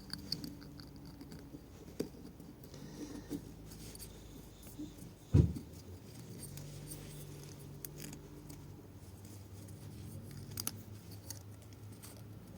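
Piston rings being fitted by hand onto a GX200-clone piston: light metallic clicks and rubbing, with one dull knock about five seconds in.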